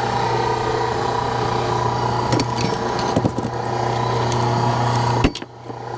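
Engine of a hydraulic log splitter running steadily, with a few sharp knocks and cracks from the logs being split; the hum dips briefly near the end.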